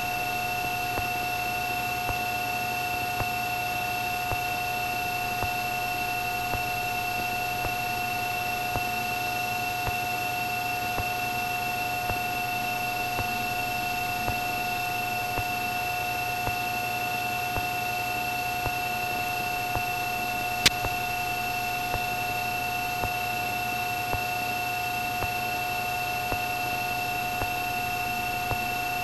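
Steady cabin drone of a Cessna 310's twin piston engines and propellers at reduced power for slow flight, with a few faint ticks and one sharper click about twenty seconds in.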